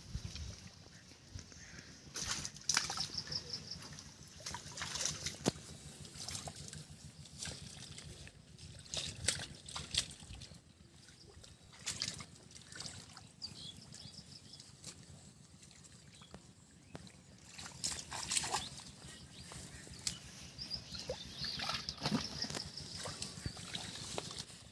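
Shallow floodwater in a drain sloshing and splashing in irregular bursts as hands grope through it for catfish.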